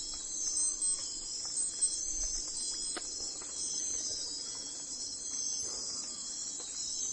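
Steady insect chorus: a dense, high-pitched trilling that holds on without a break, with a few faint clicks.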